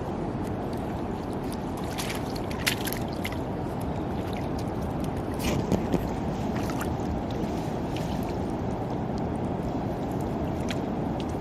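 Steady low rushing noise of water, with a few short sharp splashes or knocks about two to three seconds in and again near six seconds.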